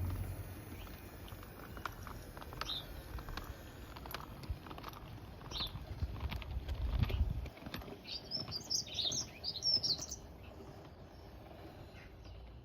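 Small birds chirping, with single chirps every few seconds and a busy flurry of chirps about two-thirds of the way through. Under them a low rumble with scattered clicks dies away about halfway through.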